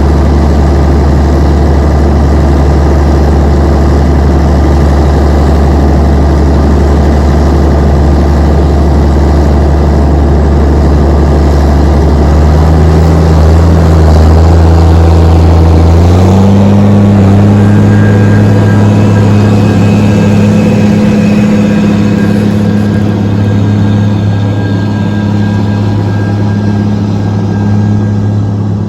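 John Deere 9400 tractor's diesel engine running steadily under load while pulling a dirt pan. About halfway through, the engine note steps up in pitch twice in quick succession, then holds steady at the higher speed.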